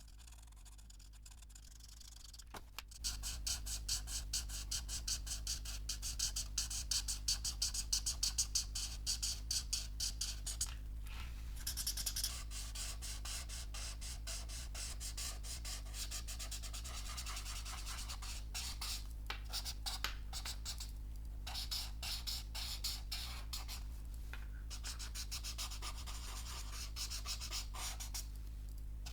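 Dip-pen nib scratching across paper in rapid, short, repeated strokes, broken by a few brief pauses, over a steady low hum. The scratching begins about three seconds in.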